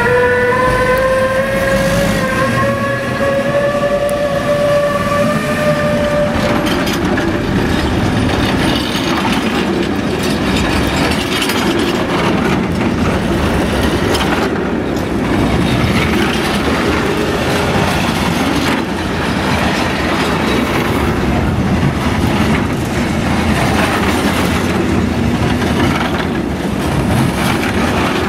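Class 185 (Bombardier TRAXX) electric locomotive's traction motors whining and rising in pitch as it pulls away, the whine fading about six seconds in. After that a long rake of container wagons rumbles past, wheels clicking over the rail joints.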